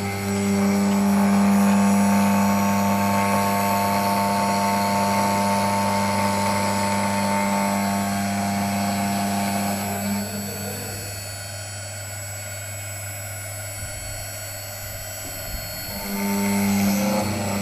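CNC wood router with an air-cooled spindle running, a steady machine hum with a mix of whining tones. About ten seconds in the sound drops and thins out, then rises again near the end.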